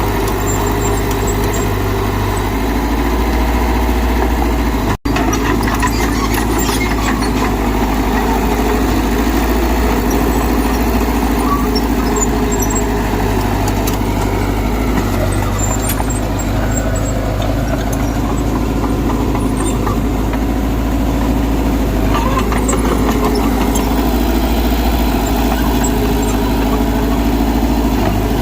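Mitsubishi BD2G bulldozer's diesel engine running steadily under load, with one instant dropout about five seconds in.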